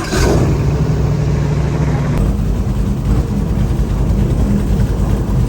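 Tour boat's engine throttling up suddenly, then running loud and steady under way.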